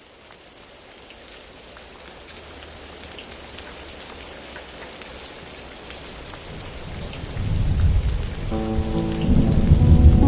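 Steady rain with scattered drop ticks, fading in, joined by a deep rumble of thunder that builds from about seven seconds in. Near the end, held music chords come in over the storm.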